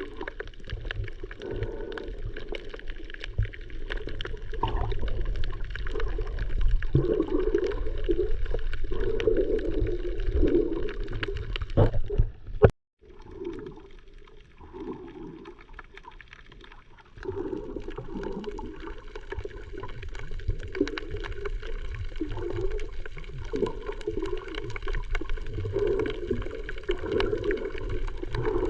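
Muffled seawater sloshing and gurgling around the camera, heard from in the water. It cuts out abruptly a little before halfway and comes back quieter for a few seconds before the sloshing picks up again.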